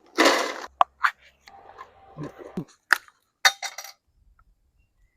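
Metal cookware clinking: a short rustle, then several sharp, ringing taps of a utensil or lid against a pot over about four seconds.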